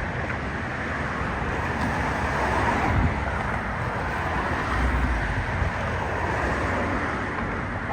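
Steady rumble of a freight switching move: a rebuilt EMD GP40-3 locomotive and its slug hauling a long line of freight cars, heard as an even noise with low gusty thumps on the microphone.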